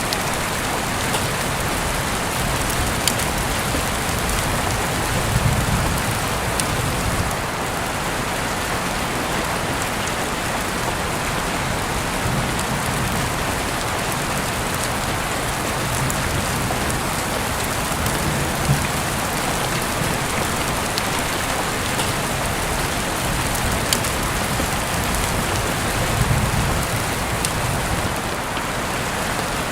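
Steady rain falling, an even hiss of drops on surfaces, with a few sharp clicks scattered through and three brief low swells.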